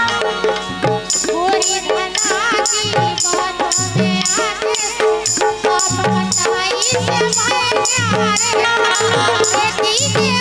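Indian folk music instrumental interlude: tabla-style drum strokes under a steady, quick high percussion beat and a wavering melodic line.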